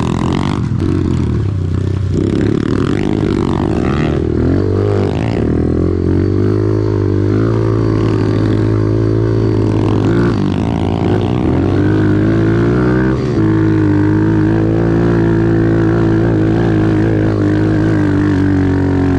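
Small off-road vehicle engine running under way. Its revs drop and climb again several times, then it holds a steady high note for the last few seconds.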